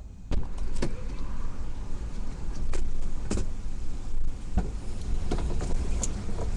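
Strong gusting wind buffeting a vehicle, a heavy low rumble that rises sharply about a third of a second in, with scattered sharp taps against the body.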